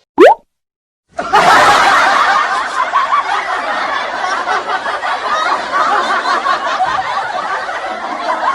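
A short rising pitch sweep, then after a moment's silence a long stretch of many people laughing together: a laugh-track sound effect.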